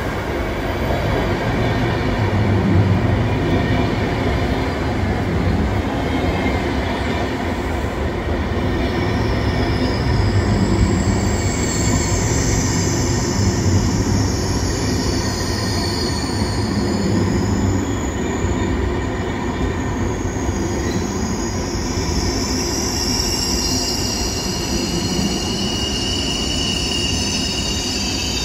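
A train running through a railway station, a steady loud rumble of wheels on rails. From about eight seconds in, a high-pitched wheel squeal comes and goes over the rumble.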